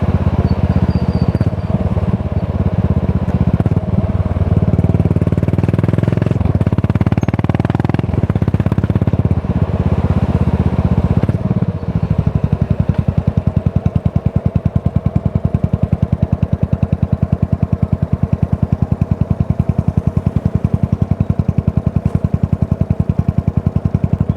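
Yamaha SR400's single-cylinder four-stroke engine running through a Goods tapered cone slip-on muffler. The note varies with riding for the first half, then from about halfway settles into a slower, even beat of separate exhaust pulses.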